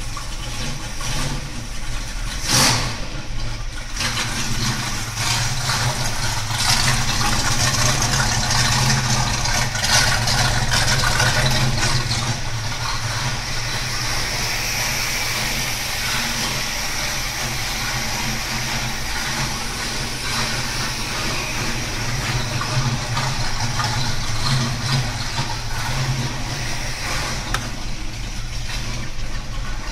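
Jensen Interceptor's Chrysler V8 running at idle, a steady low rumble that rises somewhat for several seconds early on. There is a short sharp noise about two and a half seconds in.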